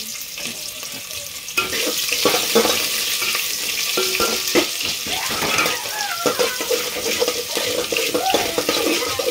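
Sliced onions, bay leaves and whole spices sizzling in hot mustard oil in an aluminium pot, with a spatula scraping and knocking against the pot as they are stirred. The sizzling and scraping grow louder about one and a half seconds in.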